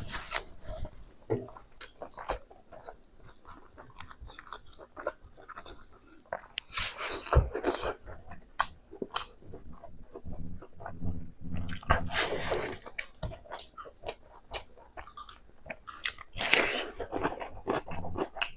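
Close-miked chewing and biting of pork, with crunching, many small wet clicks and a few louder bursts of chewing.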